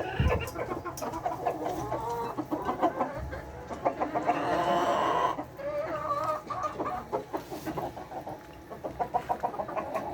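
A flock of layer hens clucking and calling, many short calls overlapping, with a denser stretch of calling about four seconds in.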